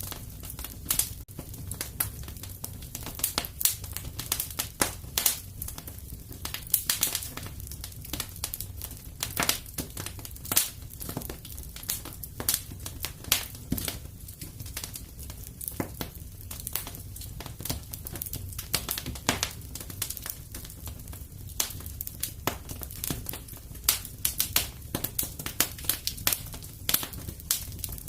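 Wood fire crackling in a fireplace: irregular pops and snaps, several a second, over a steady low rumble of the flames.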